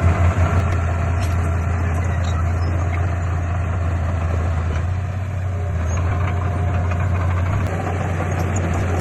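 Heavy construction-machine diesel engine running steadily with a deep, even drone, easing off slightly about five seconds in.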